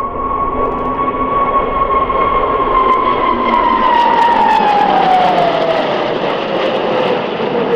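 Formation of Hongdu L-15E jet trainers passing overhead: a jet roar building in loudness, with the engines' whine holding steady and then dropping in pitch from about three seconds in as the aircraft go by.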